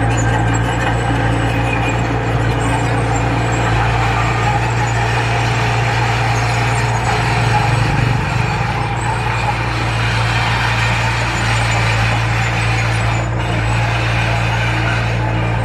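Heavy construction machine's engine running steadily under work, a constant low hum with noise of the machine working over it.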